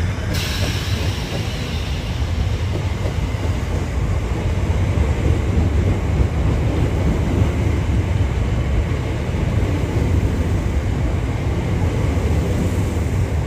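Electric passenger train running through the station, a steady low rumble that grows slightly louder around the middle.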